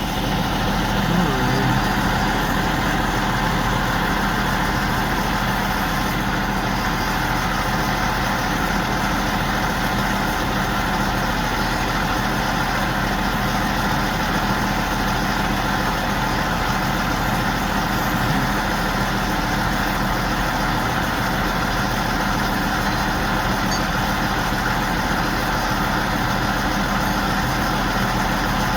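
Heavy engine of a big mobile crane running steadily at a constant speed while it lifts a rooftop HVAC unit.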